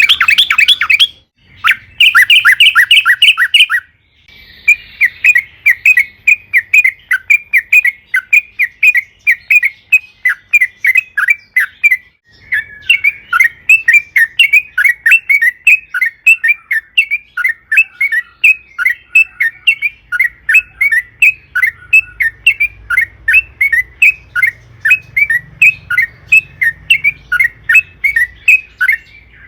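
Yellow-vented bulbul (trucukan) singing a long, rapid run of short, bubbly chattering notes, broken by a few brief pauses.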